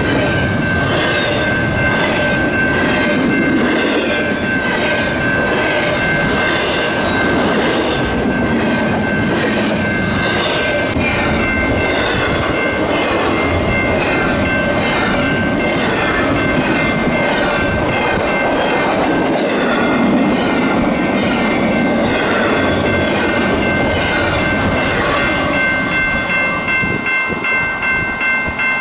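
Double-stack intermodal freight cars rolling past at speed, wheels clicking steadily over the rail joints. A grade-crossing bell rings in rapid, even strokes throughout and is left on its own near the end as the last car passes and the rolling noise falls away.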